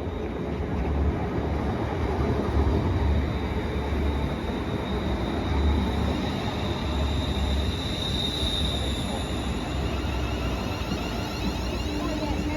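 Passenger train running through the station without stopping: a steady rumble of wheels on rail, with a thin high whine that swells and fades about eight seconds in.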